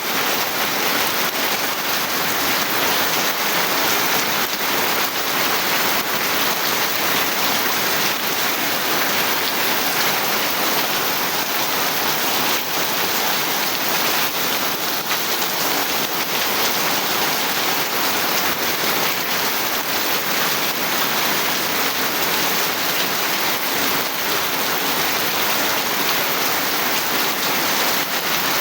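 Steady heavy rain falling, a dense even hiss of many fine drops with no let-up.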